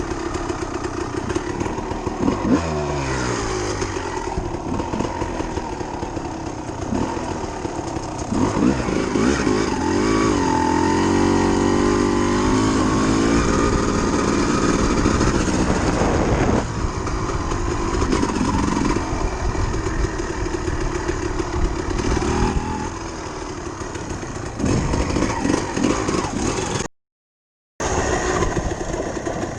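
Dirt bike engine running and revving up and down, with the revs higher and louder from about eight to sixteen seconds in. The sound cuts out for about a second near the end.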